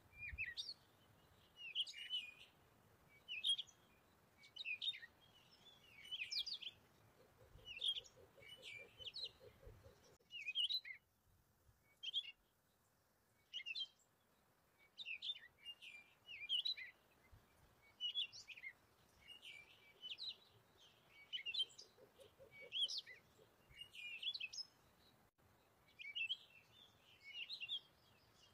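Small birds chirping, with short high calls repeating about once a second.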